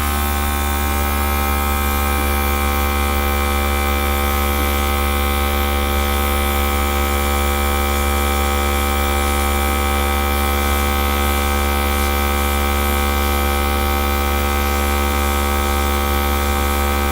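Small electric air gun running steadily: a strong low motor hum with a stack of steady higher tones above it.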